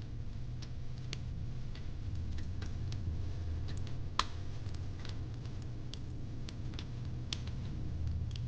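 Fire crackling in a fire pit: irregular sharp pops and snaps, one louder pop about four seconds in, over a steady low rumble.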